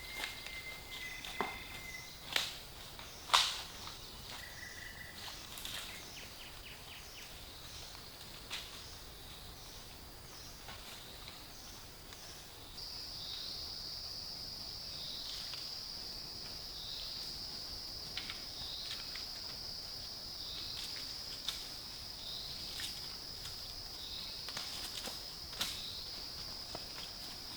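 Insects buzzing steadily in a high, chirring drone that grows louder about halfway through, with scattered footsteps and short crackles in dry leaf litter.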